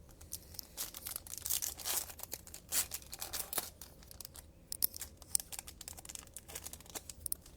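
A sealed trading card pack being torn open, its foil wrapper ripping and crinkling in a run of sharp, irregular crackles.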